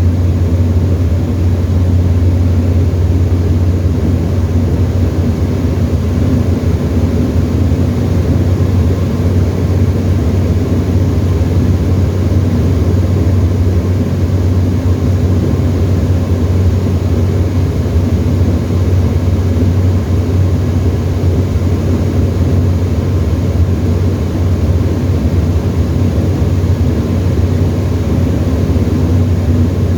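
Tecnam ultralight's engine and propeller droning steadily in flight, heard from inside the cockpit.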